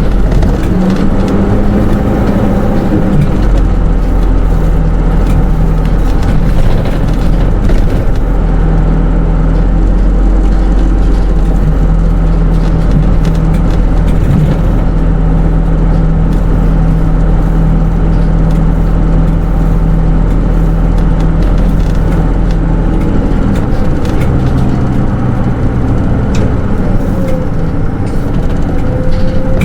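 Hino Rainbow II SDG-KR290J1 city bus heard from inside the cabin while under way: its four-cylinder diesel engine and automatic transmission give a steady drone over road rumble and light rattles. The engine note shifts a few times, and near the end a tone falls and then rises again.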